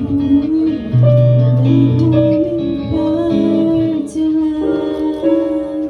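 Guitar playing the instrumental introduction to a song, held notes over a moving bass line, before the singing comes in.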